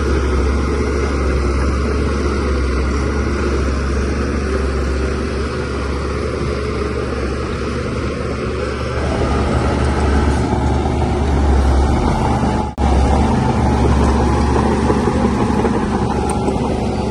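DH17C3PRO bulldozer's diesel engine running steadily as it works, with a brief dropout about three-quarters of the way through.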